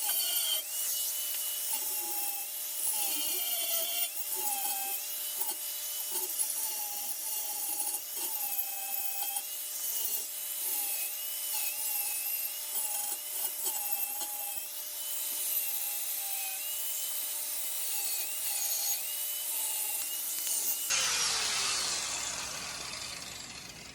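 Angle grinder dressing the cut edge of a steel exhaust pipe: a continuous gritty grinding noise with a motor whine that wavers in pitch as the pressure on the disc changes. About three seconds before the end the grinding stops and the sound fades.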